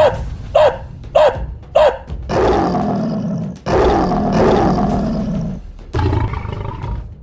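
A puppy yaps four times in quick succession, then a bear roars twice in long, loud roars, with a shorter third roar near the end.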